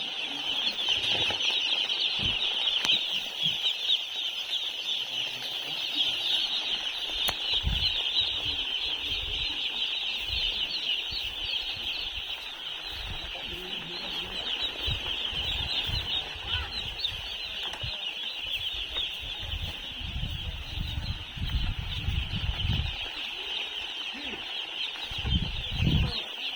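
A large flock of chickens calling continuously, a dense high-pitched chatter of many overlapping short chirps. Low thumps and rumbles come and go beneath it, heaviest in the last few seconds.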